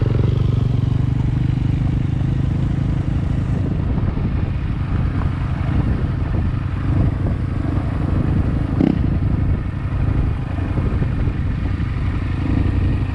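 Yamaha Ténéré 700's parallel-twin engine running steadily under way, with road noise and one brief clatter about nine seconds in.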